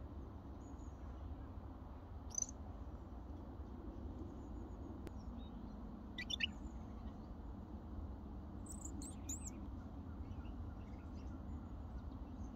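Short, high bird chirps come every few seconds, with a quick run of notes about two-thirds of the way through. Under them runs a steady low background rumble.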